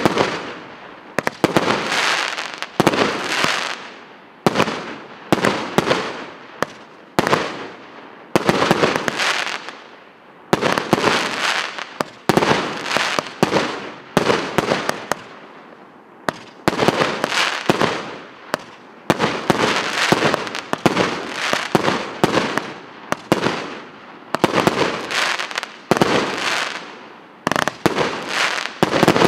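A 25-shot, 1.2-inch consumer fireworks cake (Orient ОТС 5131 "Морской бой") firing shot after shot, about one every second or so. Each shot is a sharp bang followed by a fading crackle as the stars burst.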